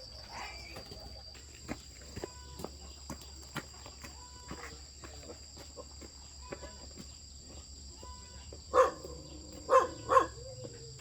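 Insects, crickets among them, chirring with a steady high-pitched note throughout, with scattered light clicks and taps. Near the end come three loud short pitched calls.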